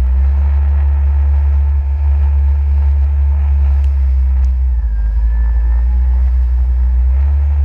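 Jet ski engine running steadily at speed: a loud, continuous low rumble.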